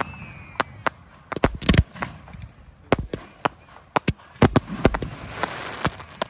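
Aerial fireworks bursting in quick, irregular bangs, well over a dozen, some in close pairs. A faint falling whistle sounds in the first second, and a hiss builds between the bangs near the end.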